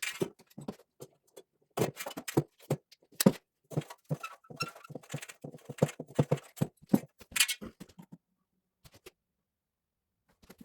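Irregular clinks, clicks and knocks of hand tools and pipe fittings being handled during plumbing work, coming thick for about eight seconds and then stopping.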